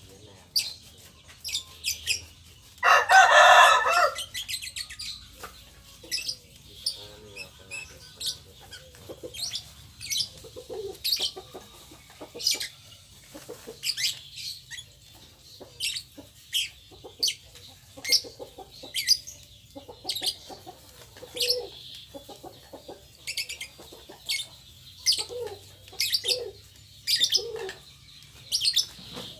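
Birds chirping: short high chirps repeat about once a second, with one loud, fuller call lasting about a second roughly three seconds in. Chickens cluck in between.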